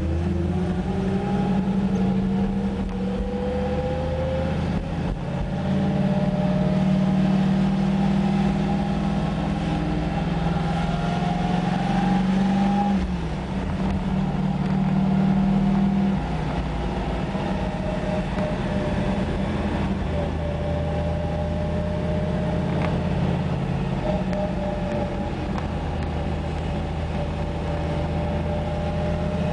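1970 Camaro Z28's 350 small-block V8 heard from inside the car while driving, its pitch climbing over the first few seconds. It eases off briefly a little under halfway through, then runs at a steady cruise.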